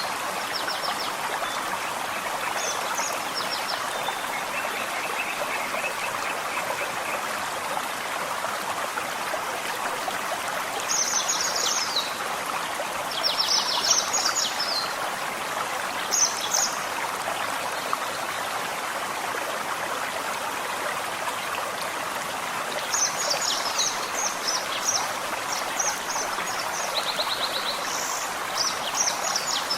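Forest stream flowing steadily, with small birds singing short bursts of high, quick, repeated chirps near the start, around the middle and through the last third.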